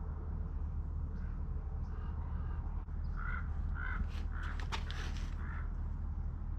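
A bird calling in a run of short repeated calls, about two a second, with a few sharp clicks near the middle, over a steady low rumble.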